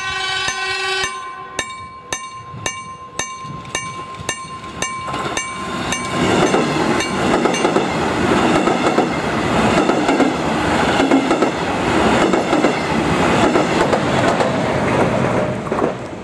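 A warning bell rings in quick, even strokes, about three a second, fading over the first few seconds. From about six seconds in, a double-deck push-pull passenger train passes at speed with a loud rumble and wheel clatter over the rail joints, falling away near the end.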